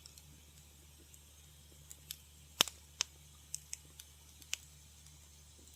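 Wood fire crackling in a fireplace: scattered sharp pops and snaps over a faint steady hiss, with the loudest pair of pops about two and a half to three seconds in.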